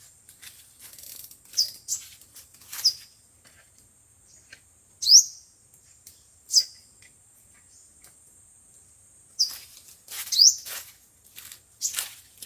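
Sunbird calls: short, sharp, high chirps given singly at irregular intervals of one to two seconds, the kind of call used as a lure recording to draw wild sunbirds.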